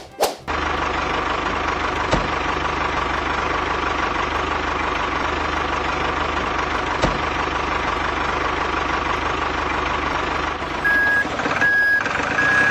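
Truck engine running steadily, then a reversing alarm beeping three times near the end.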